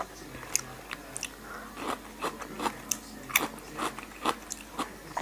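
Close-miked crunchy chewing of a moo yor (Thai pork sausage) salad with lettuce: a steady run of short crunches, two or three a second.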